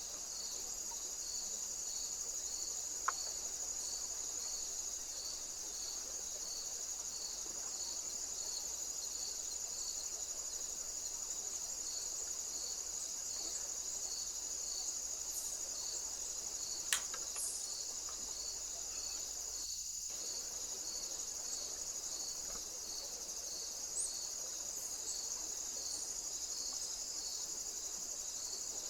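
Steady chorus of singing insects, crickets: a continuous high trill with a lower chirp repeating about twice a second. Two sharp clicks break in, one about three seconds in and one about seventeen seconds in.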